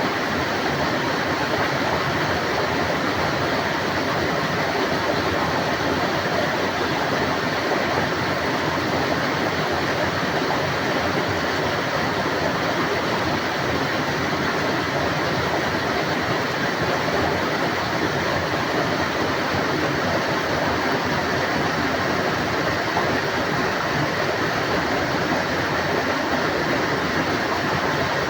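Heavy tropical rain pouring down in a steady, unbroken roar.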